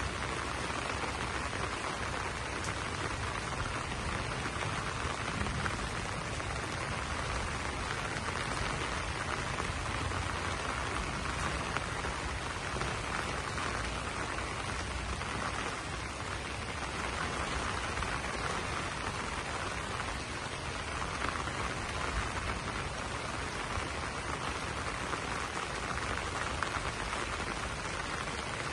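Steady rain falling on banana leaves, a dense even patter of drops.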